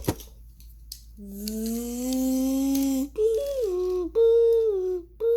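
A child's voice making drawn-out hummed or sung play noises: a sharp click at the start, then one long low note rising slightly, then three shorter higher notes that each slide down in pitch.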